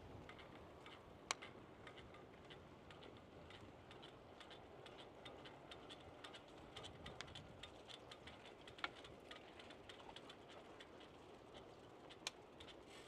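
Faint, irregular ticking and clicking from a bicycle being ridden, with three sharper, louder clicks: about a second in, about nine seconds in, and near the end.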